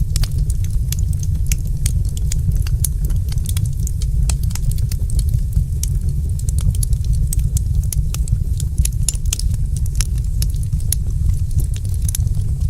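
Fireplace fire crackling: frequent sharp snaps and pops, several a second, over a steady low rumble.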